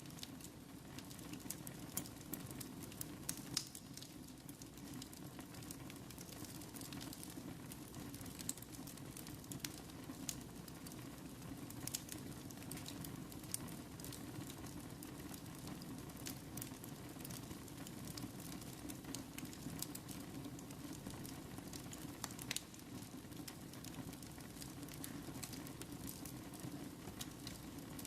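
Wood fire burning in a fireplace: a steady low rumble of flame with scattered crackles and occasional sharper pops.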